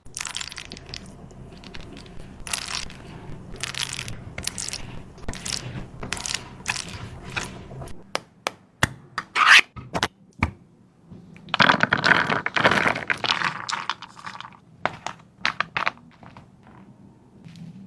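Dog eating from a bowl: irregular bursts of crunching and chewing, with its mouth scraping and knocking against the dish.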